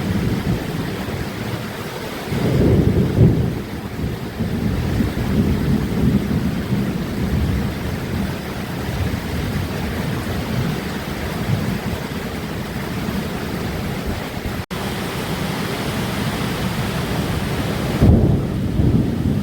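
Thunder rumbling over steady heavy rain, with deep rolls swelling about three seconds in and again near the end.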